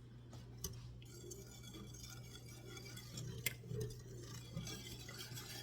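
A few faint clicks and clinks of kitchen utensils and glassware over a steady low hum.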